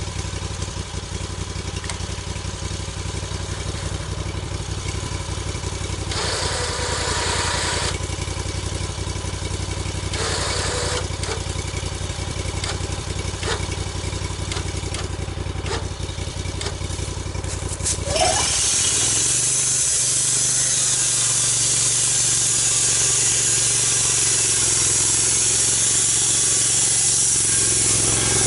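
Engine of a log-milling saw running at idle, then revving up about 18 s in, followed by a steady, louder high hiss as the saw cuts through the log.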